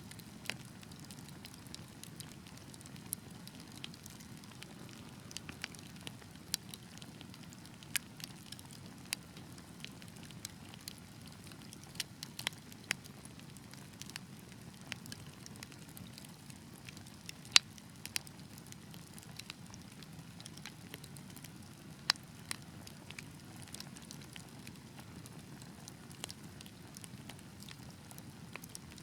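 Wood fire crackling: irregular sharp pops and snaps over a soft low rumble of the burning, with two louder pops in the second half.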